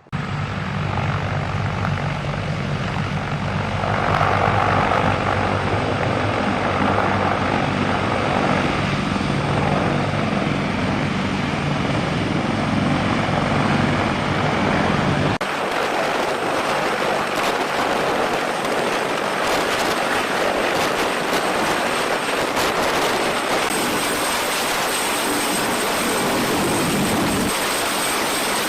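CH-53K King Stallion heavy-lift helicopter running loudly: a steady low rotor and engine rumble under a broad rush of noise. About halfway through the sound changes abruptly to a thinner turbine hiss with a steady high whine and much less low rumble.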